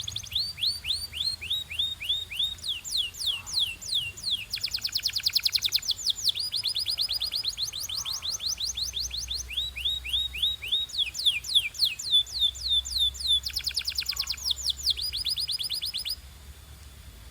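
Domestic canary singing a long song of rapid trills: runs of quickly repeated downward-sweeping notes, each run at its own pitch and speed and changing every second or so. The song stops about a second before the end.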